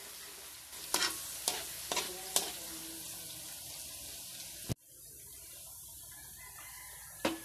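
Chopped onion sizzling in hot oil in a wok, with the spatula clinking against the pan several times as it is stirred. A sharp click comes about two-thirds of the way through, and after it the sizzle goes on quieter.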